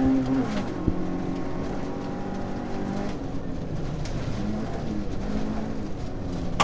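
Nissan Micra rally car's engine heard from inside the cabin at speed. The revs fall about half a second in, then hold lower, dipping and rising a couple of times, over a steady hiss of tyres on a gravel road.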